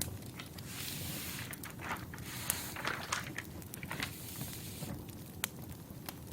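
Wood fire crackling, with scattered sharp pops of burning logs, over a steady low hiss. A longer rustling noise runs from about one to four seconds in.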